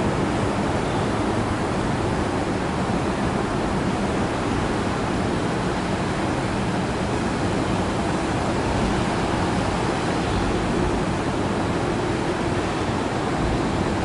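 Train running past close by, a steady, even rushing roar with no separate beats.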